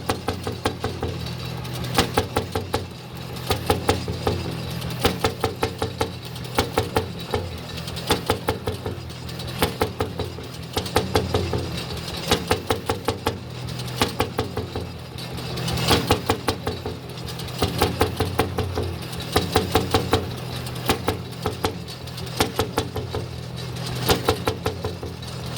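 Jelbart single-cylinder hot-bulb tractor engine running. Its sharp exhaust beats come in quick clusters of several knocks about every one to two seconds, over a steady low drone.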